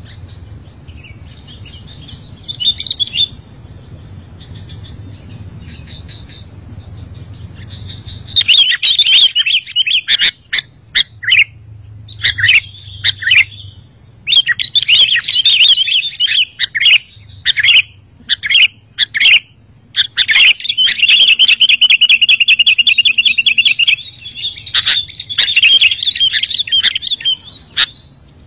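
Sooty-headed bulbul (kutilang) song, as used in a recording to train captive birds and lure wild ones. After a faint call, loud bursts of short chirps and whistled phrases come from about a third of the way in, with a long, rapid trill about two-thirds through.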